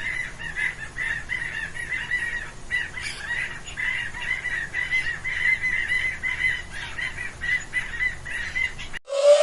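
A flock of birds calling, many short overlapping calls in quick succession. Just before the end it cuts to a single louder, lower-pitched call that falls in pitch.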